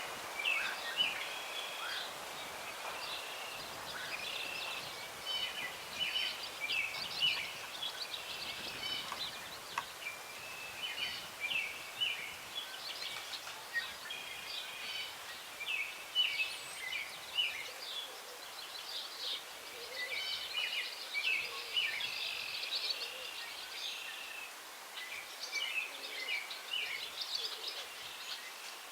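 Several songbirds singing at once in a stand of old trees, a busy chorus of short chirps and trills that goes on without a break, over a faint hiss of breeze in the branches.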